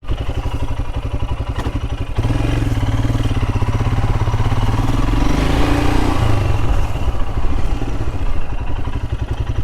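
Royal Enfield Himalayan's single-cylinder engine running as the motorcycle is ridden. The engine gets louder about two seconds in, and its pitch climbs before dropping back about six seconds in.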